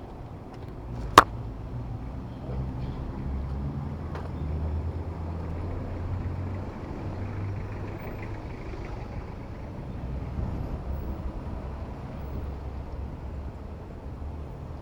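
City road traffic heard from a bicycle: a steady low rumble of motor vehicle engines nearby, swelling for several seconds in the middle, with one sharp click about a second in.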